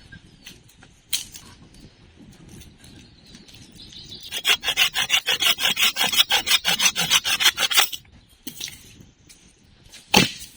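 A hand saw cutting wood in quick, even strokes for about three and a half seconds mid-way, followed near the end by a single sharp knock.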